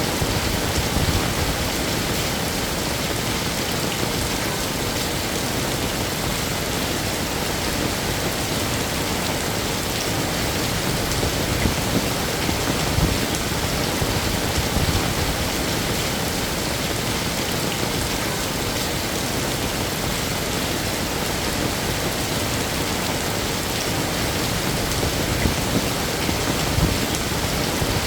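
Heavy rain falling steadily, a dense even hiss of drops on hard surfaces, with small swells in intensity.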